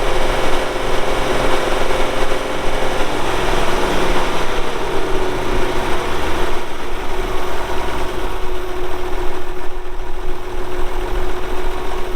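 1967 Oliver 1750 tractor's six-cylinder diesel engine running, its pitch falling a few seconds in as it slows, then holding steady.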